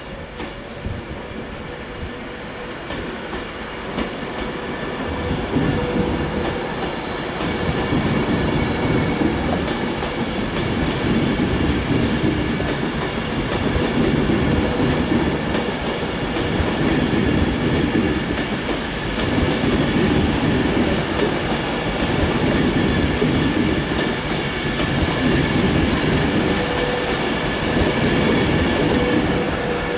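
Class 390 Pendolino electric train pulling away and running past, its wheels rumbling and clattering on the rails under a steady hum. It grows louder over the first six seconds or so, then stays loud.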